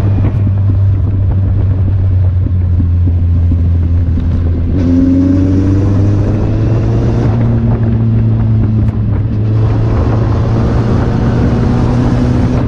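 Kawasaki Z800's inline-four engine running while riding, its pitch climbing as it accelerates about five seconds in and again near the end.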